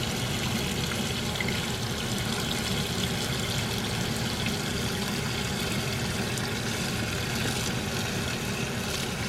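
Gray water draining steadily from a camper's holding tank into an RV dump station.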